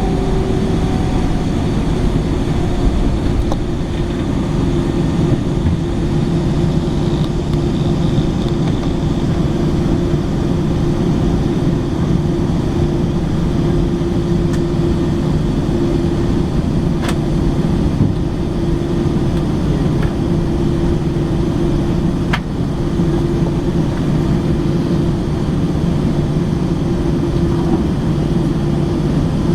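Airbus A321 cabin noise while taxiing to the gate after landing: a steady rumble with a held hum from the engines at idle, and a couple of faint clicks about halfway through.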